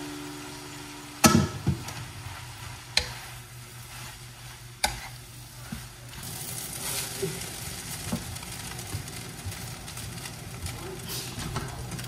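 Nasi goreng (fried rice) frying in a pan, stirred with a wooden spatula: a light sizzle under a steady low hum, with a few sharp knocks of the spatula against the pan and bowl in the first five seconds. The sizzle grows a little stronger from about halfway on.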